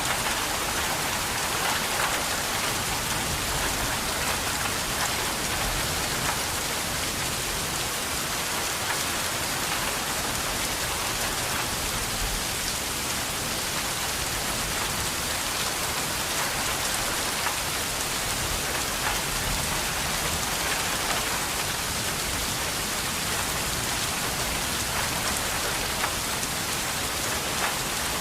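Steady, heavy rain falling on a surface, a dense even hiss with many individual drop patters.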